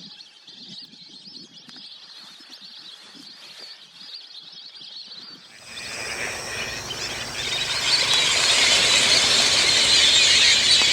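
Wetland birds calling, faintly at first; about six seconds in it turns into a much louder, dense chatter of many birds calling together.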